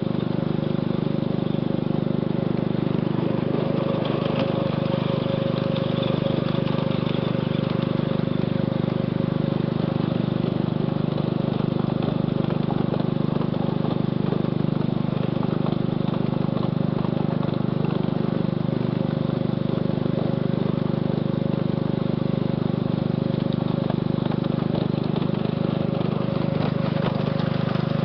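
Ride-on scale switcher locomotive running steadily along its track: an even motor drone with a steady whine on top.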